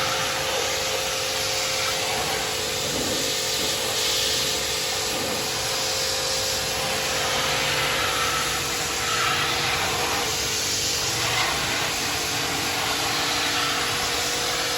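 A steady, unbroken rushing noise with a constant hum underneath, from a machine running without a break.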